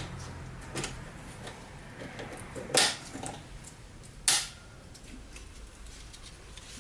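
Scattered clicks and knocks of parts or tools being handled on a workbench, with two louder sharp knocks a second and a half apart near the middle.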